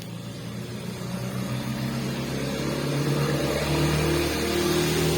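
A motor vehicle's engine and tyres growing steadily louder as it approaches and drives past close by.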